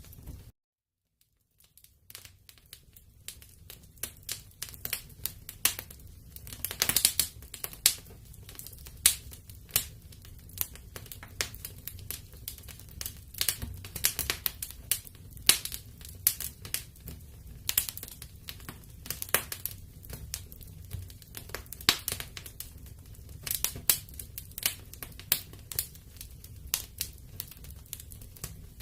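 Wood fire in a fireplace crackling, with irregular sharp pops and snaps several times a second over a low rumble of flame. The sound cuts out completely for about a second and a half just after the start.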